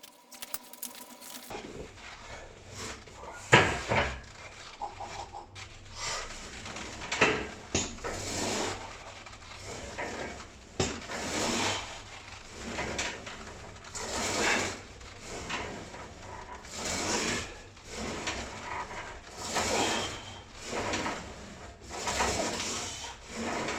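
Hard, rhythmic breathing through a set of loaded hack-squat reps, one swell of breath every second or so, with a few sharp knocks from the weighted rig.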